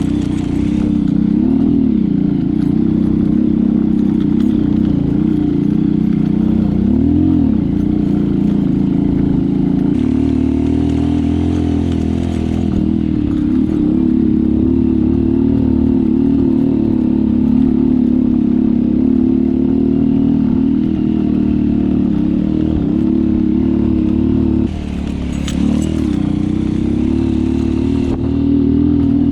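Motorcycle engine running under load while riding, its pitch rising and falling with the throttle, with a short drop in level about 25 seconds in.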